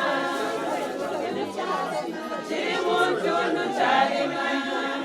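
A group of people singing together without instruments, with talking mixed in.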